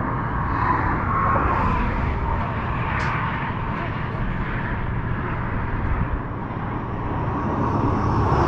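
Steady outdoor rumble of road traffic, with people's voices in the background.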